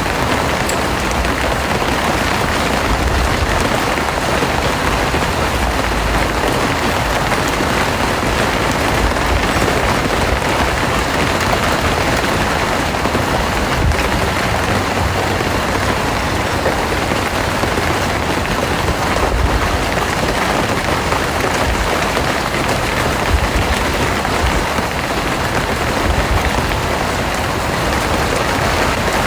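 Rain falling steadily, a dense even hiss of drops with no let-up.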